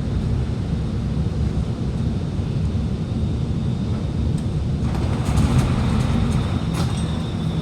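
Steady low rumble inside an Alstom Movia R151 MRT carriage standing at a station platform. A louder wash of noise joins about five seconds in.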